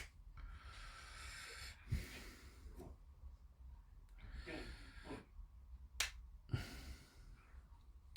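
Masking tape being peeled off in strips, a rasping hiss three times, with a few short knocks from handling the plastic model kit.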